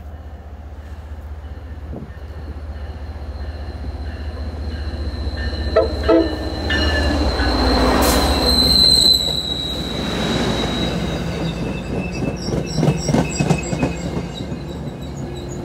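MBTA commuter train pulling into a station: the diesel locomotive comes up and passes close with a building rumble that is loudest about eight seconds in, over a steady high squeal of wheels or brakes. The bilevel coaches then roll by slowing, their wheels clicking over the rail joints.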